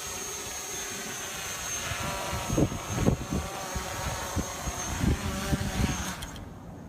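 RC Logger NovaX 350 quadcopter's motors and propellers running with a steady high whine, while strong wind gusts thump on the microphone. It is being brought in on a low battery, and the whine drops away sharply near the end.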